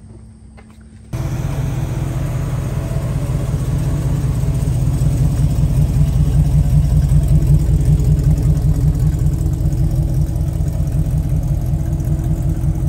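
Carbureted big-block Chevrolet V8 in a 1976 El Camino running at low speed with a rapid, steady exhaust beat as the car pulls away, coming in about a second in.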